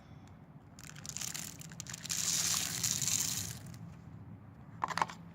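Birdseed poured from a scoop through a funnel into a bird feeder: a rushing hiss of seed that starts about a second in, is loudest in the middle, and tails off.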